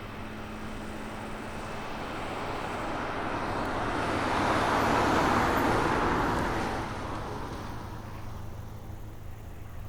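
A vehicle passing by, growing louder to a peak about five seconds in and then fading away, over a steady low hum.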